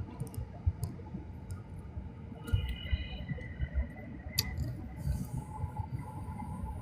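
Low running rumble inside a moving commuter train carriage, with irregular soft thuds and a few sharp clicks.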